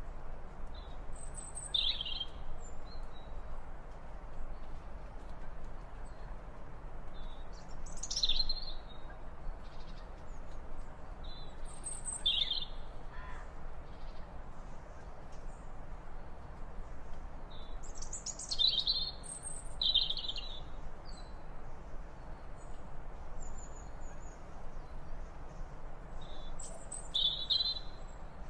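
Short, high-pitched bird calls in brief clusters every few seconds over a steady hiss of outdoor background noise.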